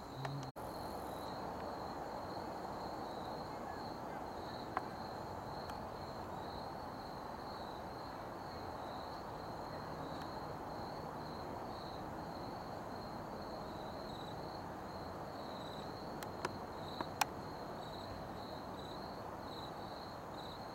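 Crickets chirping in a steady high trill over a constant low rushing background noise, with a few faint clicks.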